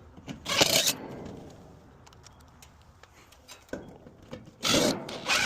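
Two short bursts of scraping and rubbing, about half a second in and near the end, with a few light clicks between them.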